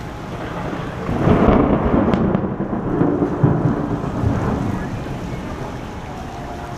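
A peal of thunder rumbles in about a second in, loudest for the next couple of seconds and then slowly fading, over steady falling rain.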